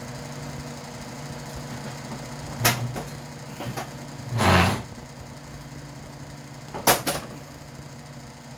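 Steady hum of a noisy electric fan, with two sharp clicks and a brief louder scrape about halfway through, from small parts being handled.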